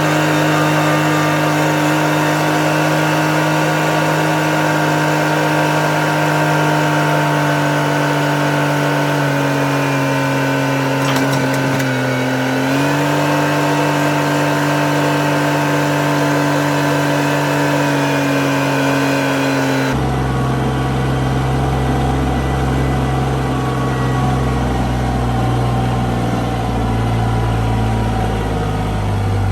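Bad Boy tractor engine running steadily, dipping briefly in pitch under load about a third of the way in and then recovering. About two-thirds of the way in the sound changes abruptly to a deeper, rougher engine rumble.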